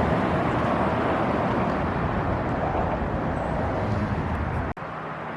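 Steady outdoor rush of passing road traffic that slowly eases, breaking off abruptly near the end into a quieter steady background.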